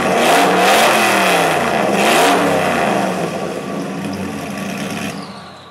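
Alfa Romeo 8C Monza's supercharged straight-eight engine being blipped: the revs rise and fall about three times, then drop to a lower, steadier run, and the engine is switched off near the end.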